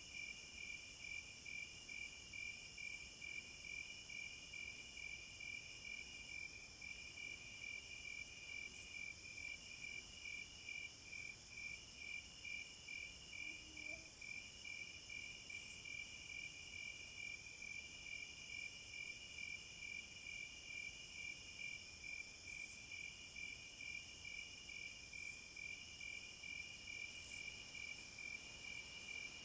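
Night chorus of crickets: a steady, evenly pulsed chirping, layered with a higher insect trill that runs in stretches of a couple of seconds broken by short gaps, and a few brief louder high chirps.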